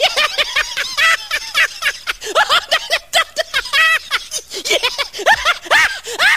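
High-pitched voices letting out rapid, swooping cries and giggles, one after another, with no clear words.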